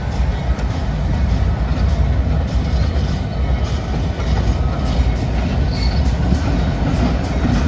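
A train going by, a steady loud rumble of wheels on the rails.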